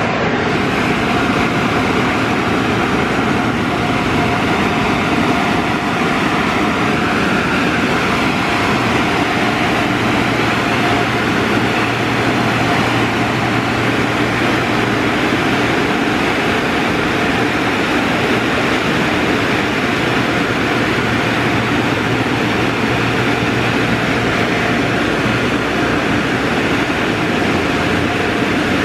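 D&S Odyssey in-bay automatic car wash running: a loud, steady rushing noise, with a low hum that comes in about nine seconds in and drops away near the end.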